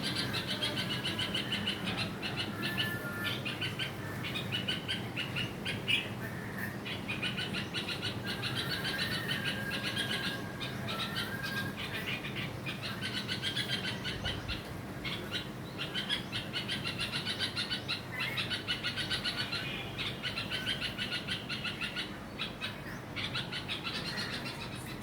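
Red-vented bulbul giving alarm calls: runs of rapid, repeated chattering notes with short breaks, scolding a lizard near its nestlings.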